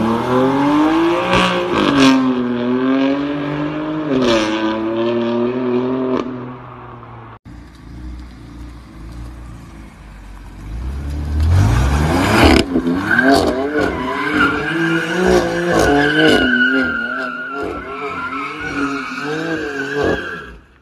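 BMW M4 F82's twin-turbo straight-six accelerating hard, its revs climbing and dropping twice in the first few seconds. After a cut the engine revs up sharply and then rises and falls in waves while the tyres squeal through a drift.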